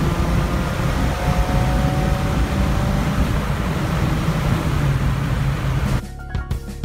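Subaru WRX's turbocharged flat-four on an E85 tune pulling hard under acceleration, heard from inside the cabin as a low engine drone under loud road and wind noise, its pitch rising slowly. About six seconds in, this gives way to the car's exhaust running with a few sharp cracks.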